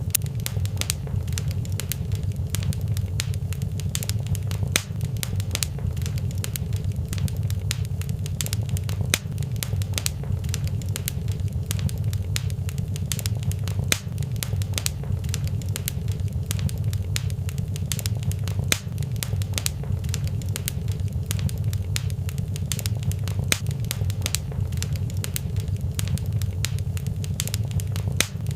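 Fireplace fire crackling, with many small sharp pops and snaps over a steady low rumble.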